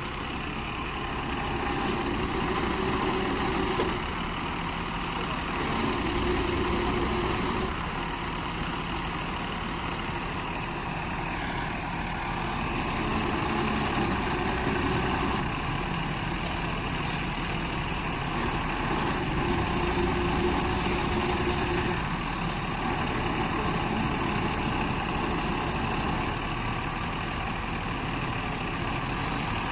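Truck engine running steadily, its level swelling and easing several times, with a low tone that comes and goes a few times over it.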